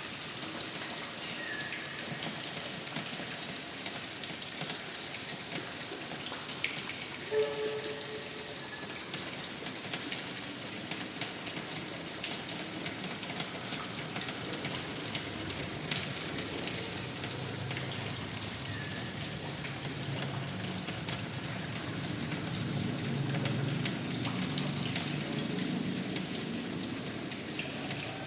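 Steady rain with scattered drop hits, growing a little louder and deeper in the second half. Faint short high chirps repeat about once a second through it.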